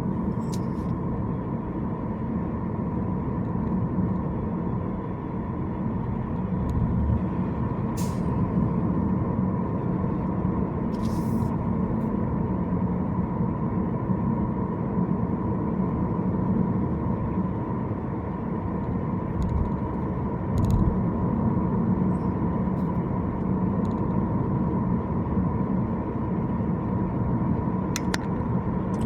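Car driving through city traffic: steady road and engine rumble with a faint constant tone, broken by a few short sharp ticks.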